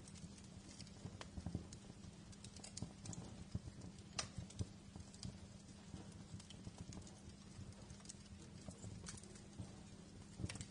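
Wood fire crackling: irregular sharp pops and snaps over a steady low rumble, with a few louder snaps near the middle.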